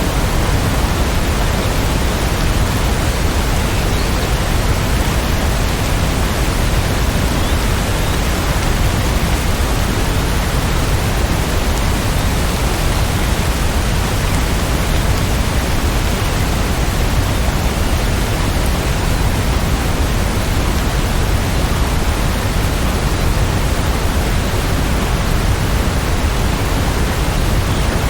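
Steady heavy rainfall, a dense even hiss with no single drops standing out.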